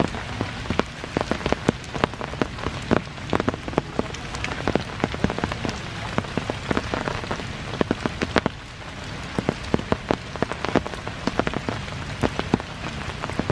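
Steady rain, a constant hiss with many sharp, irregular drop hits close by.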